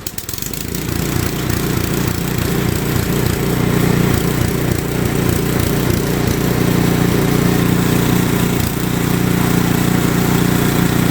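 Ariens two-stage snowblower's single-cylinder four-stroke engine running just after starting, with the choke on. It picks up over the first second or two, then runs at a steady speed.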